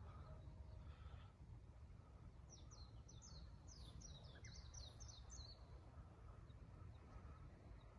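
A songbird singing a quick run of about ten short, falling, high chirps for about three seconds in the middle, over faint low background noise.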